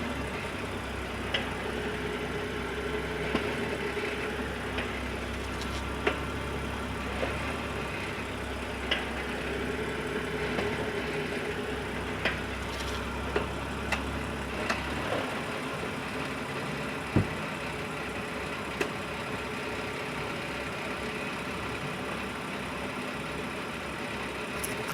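Sharp, irregular clicks every second or two over the steady low running noise of a 2013 BMW 535i M Sport, which the owner suspects is a brake clicking noise. The low rumble drops away about fifteen seconds in while the clicks carry on.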